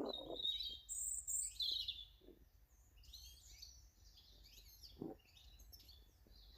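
Small garden birds calling and twittering in high-pitched chirps, with a brief low thud about five seconds in.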